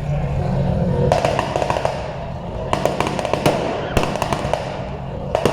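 Car engine revving with repeated bursts of crackling pops and bangs from the exhaust, in several clusters.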